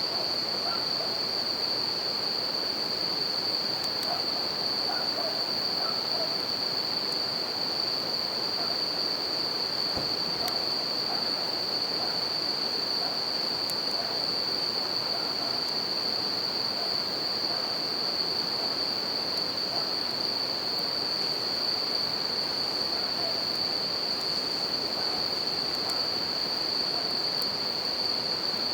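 Japanese bell crickets (suzumushi) singing a continuous high-pitched trill over the steady rush of a river, with a few faint crackles from the campfire.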